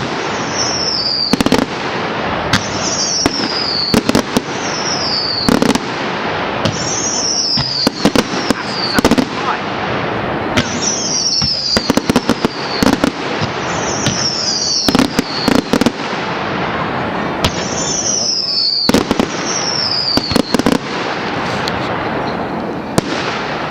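Public firework display: a continuous barrage of bangs over steady crackling. Short whistles fall in pitch about every one and a half to two seconds.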